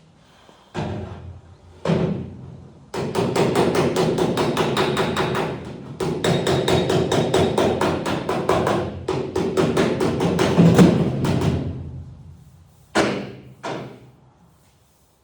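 Hammer tapping on a steel body panel: two single blows, then rapid, evenly spaced blows in three runs that ring like metal, then two more single blows near the end.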